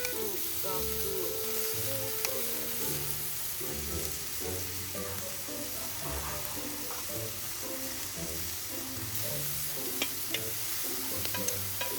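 Pork trimmings sizzling as they fry in a hot pan, a steady hiss with a few sharp pops of fat near the end.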